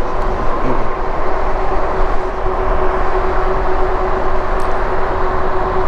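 Riding noise from a Lectric e-bike on the road: wind rushing over the microphone and tyre noise, with a steady whine from the electric hub motor.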